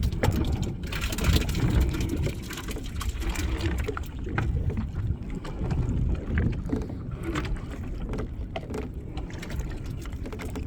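Rumbling wind and water noise on a small open fishing boat, with scattered knocks and clatter from work on board.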